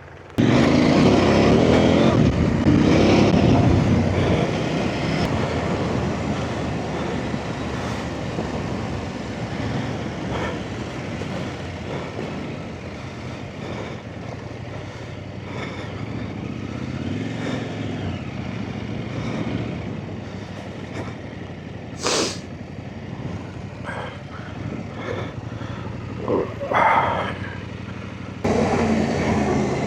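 Off-road trail motorcycle engine running as the bike is ridden along a lane, loudest in the first few seconds and then steadier. A couple of short sharp clacks come through, one about two-thirds of the way in and another a few seconds later.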